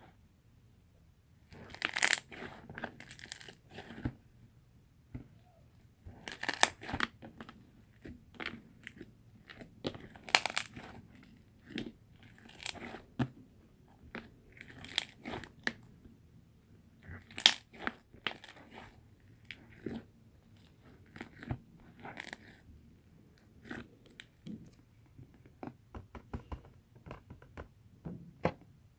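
Slime being squished and pressed by hand, making irregular short crackles and pops, with a louder burst every few seconds.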